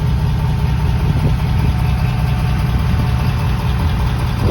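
Ford F-250 Super Duty's 6.7 L Power Stroke V8 turbodiesel idling with a steady low rumble.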